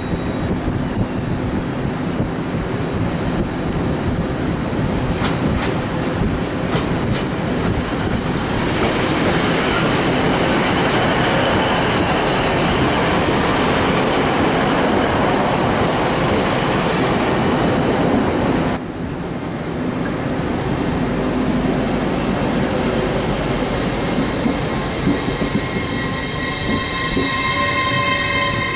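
A train moving through the station, its steady rumble growing louder about eight seconds in, with a few wheel clicks early on. It changes abruptly after about nineteen seconds, and near the end the wheels squeal with several high steady tones.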